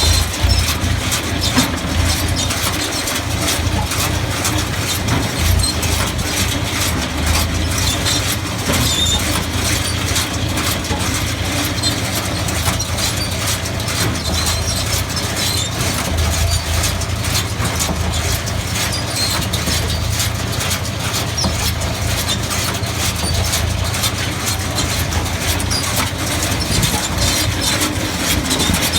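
Tractor engine running steadily while powering a Case 133 hay baler, with frequent short knocks and clatter from the baler's working parts.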